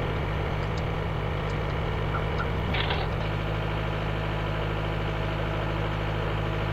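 An engine idling with a steady low hum. A brief higher noise comes about three seconds in, after which the hum settles into an even note.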